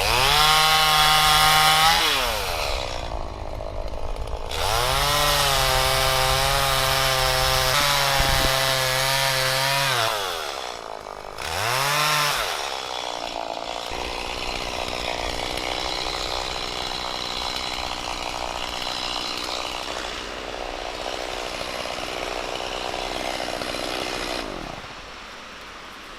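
Two-stroke chainsaw revved to full throttle three times, falling back between revs, the last one brief. It then runs on at a lower, rougher note for about ten seconds before dropping away near the end.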